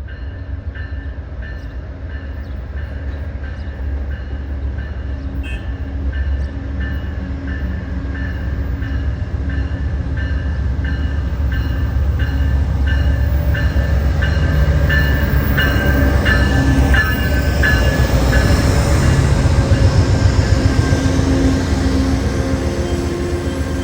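Amtrak P42DC diesel locomotive and its passenger cars approaching and passing, the rumble building over about twenty seconds, with a bell dinging steadily at about one stroke a second.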